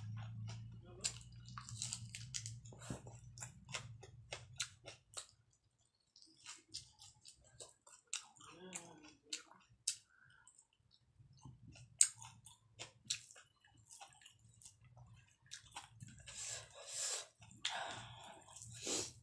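Close-up chewing and wet mouth clicks from someone eating a hand-eaten meal of rice and mustard greens, with many short sharp smacks scattered throughout. Near the end come two longer, noisier rustling sounds, and a low steady hum sits under the first few seconds.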